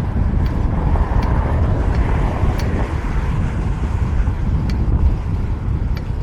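Wind rushing over the microphone of a camera on a moving fixed-gear bike, a loud steady low rumble, with street and traffic noise beneath it and a few faint sharp ticks.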